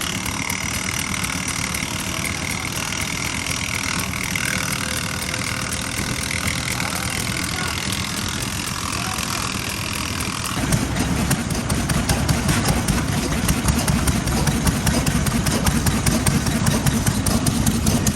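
Vintage stationary engines running steadily. About ten seconds in, a nearer or heavier engine's running becomes louder and deeper, with a rapid even beat.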